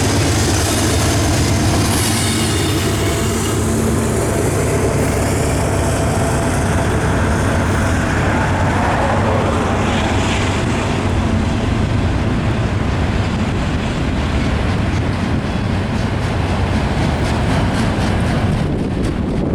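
Norfolk Southern freight train passing close by: a steady rumble of wheels rolling on the rails. In the first few seconds there is also a steady hum that then fades out.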